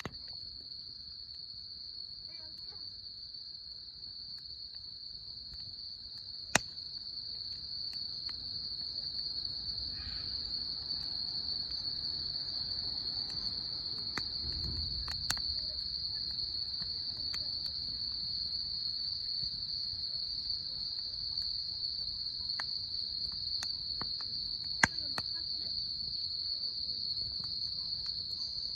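Steady high-pitched trilling of an insect chorus, with a few sharp cracks and a low rumble that grows louder after the first several seconds.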